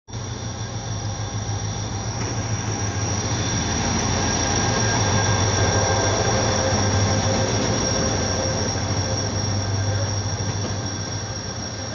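Passenger train pulling into a station and slowing: a steady low rumble of the locomotive and rolling coaches with a thin, steady high-pitched squeal. It grows louder to a peak about halfway through as the coaches pass, then eases off.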